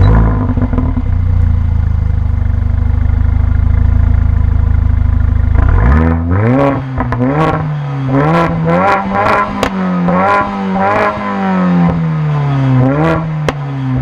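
Mercedes-AMG A 45's tuned turbocharged 2.0-litre four-cylinder, heard at the exhaust, idling steadily and fast for about six seconds, then blipped up and down about a dozen times in quick revs, with sharp pops as the revs fall.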